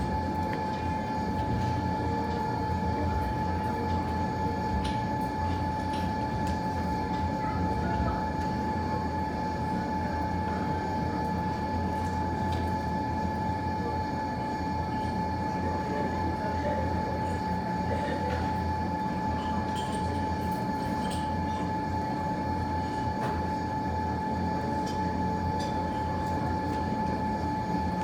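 Steady mechanical hum: a constant low rumble with an unchanging high whine over it, and a few faint scattered pops.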